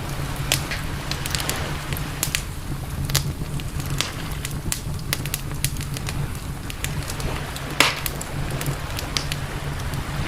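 Campfire crackling, with irregular pops and snaps of varying strength and one louder pop near the end, over a steady low rumble.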